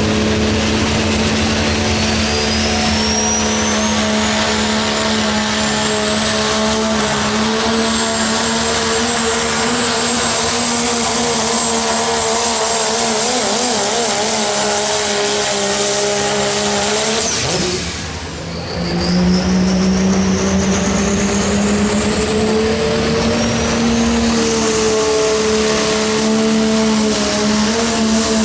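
Turbodiesel pickup truck engine running hard at full load while pulling a sled, with a high turbo whistle rising in pitch over the engine. About eighteen seconds in the engine drops away briefly, then comes back up with the whistle rising again.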